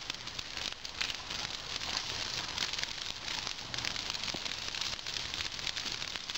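Large burning brush pile crackling and popping steadily, with many small sharp pops over a dense hiss of rain falling.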